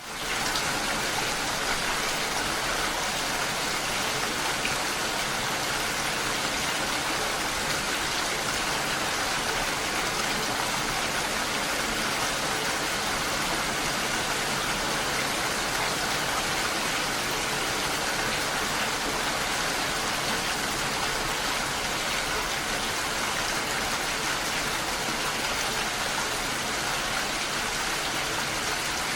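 Steady rain: a dense, even hiss of falling drops with no let-up, starting abruptly.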